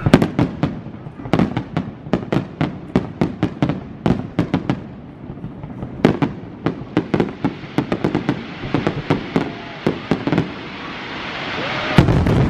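Fireworks bursting in rapid volleys: many sharp bangs in quick clusters. From about two-thirds of the way in, a hiss grows steadily louder, and a heavy bang comes near the end.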